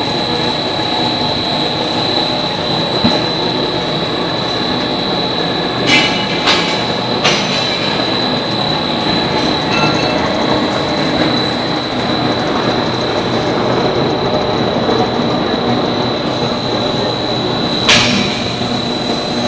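Pet chew food production machine running, with a steady mechanical rumble and a constant high-pitched whine. A few sharp clanks come about six to seven seconds in, and a louder one comes near the end.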